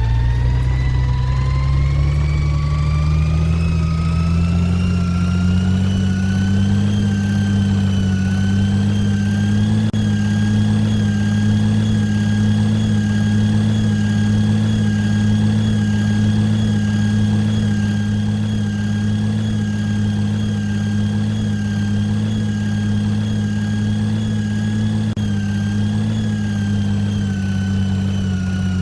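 Garbage truck's diesel engine revving up over several seconds, holding a steady raised speed, then beginning to wind back down near the end.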